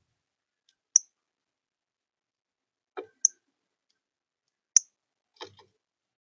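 Three sharp, high clicks about two seconds apart, with a few duller taps between them.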